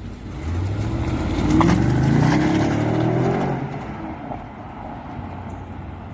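2016 BMW 750i's 4.4-litre twin-turbo V8 (N63R) revved once from idle, the pitch rising for about two seconds, then falling back to idle. The seller rates the engine very good under load, with no abnormal noise or wastegate rattle.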